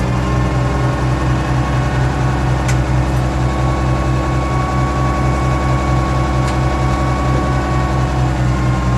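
Oliver 1650 tractor engine running steadily, with a high whine from the loader hydraulics that grows stronger through the middle. The whine comes from the hydraulics being cold, below freezing, and a little low on hydraulic oil.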